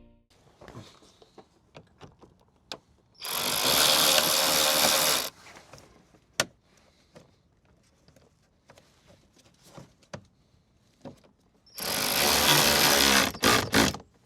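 A power tool run in two bursts of about two seconds each, the second followed by a few short blips, with faint clicks and knocks of work in between.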